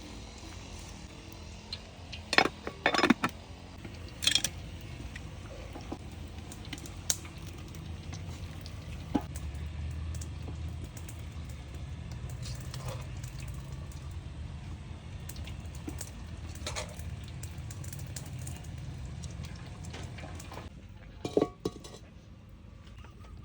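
Kitchen cookware clinking sharply a few times, in a cluster a few seconds in and again near the end, over a steady low rumble.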